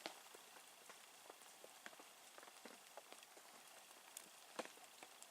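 Near silence, with a few faint, scattered ticks and clicks.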